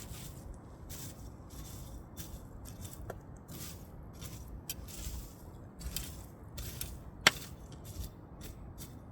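Firewood burning over a bed of glowing charcoal, crackling with irregular small snaps over a low steady rumble. One sharp, loud pop about seven seconds in.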